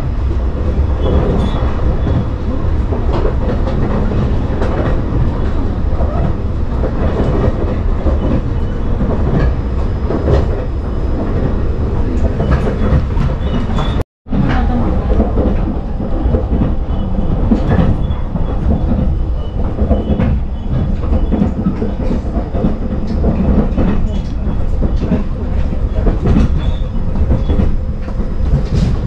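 Passenger train running on the rails, heard from inside the carriage: a steady low running noise with scattered knocks from the wheels. The sound cuts out for an instant about halfway through.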